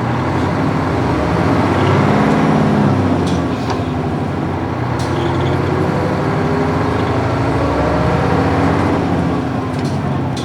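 Nissan Diesel UA440 bus's PF6 diesel engine pulling away, rising in pitch, then dropping about two and a half seconds in as the five-speed manual gearbox shifts up. It climbs again and eases off near the end, with a few light rattles.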